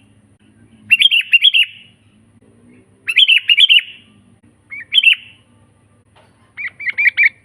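Sooty-headed bulbul (kutilang) singing in four short phrases of quick whistled notes, each phrase under a second long, with pauses between them.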